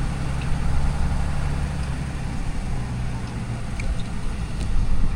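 Diesel pickup truck engine running steadily at a low, even idle-like note.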